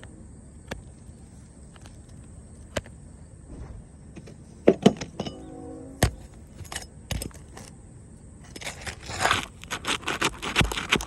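Scattered clicks and knocks of work on a roof, turning to a run of scraping and crunching for the last few seconds.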